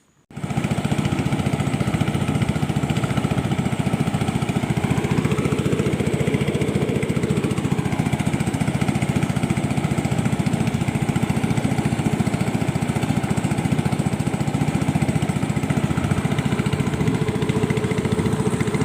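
Small engine running steadily with a fast, even firing rhythm, its pitch briefly rising and falling about six seconds in. It cuts in suddenly at the start.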